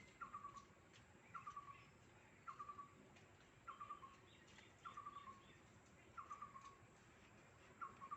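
A bird calling over and over: a short trill of a few quick notes, falling slightly in pitch, repeated about once a second. Fainter, higher chirps of another bird come in around the middle.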